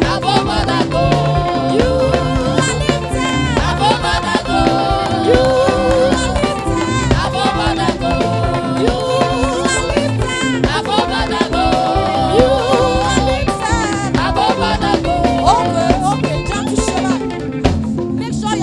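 Upbeat African gospel praise music from a live band: drum kit and percussion keep a steady beat under a melodic lead that slides and bends in pitch.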